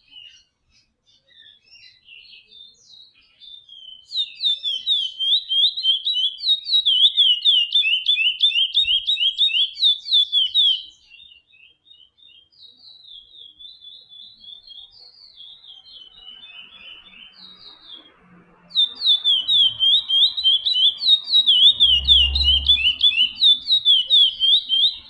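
Chestnut-bellied seed finch (curió) singing: quiet twittering, then two loud spells of rapid, repeated slurred whistled notes, the first starting about four seconds in and lasting some seven seconds, the second starting near nineteen seconds. A low thump sounds under the second spell.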